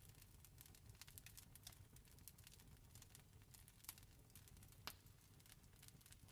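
Campfire crackling faintly: irregular small pops and snaps over a low steady rumble, with one sharper snap about five seconds in.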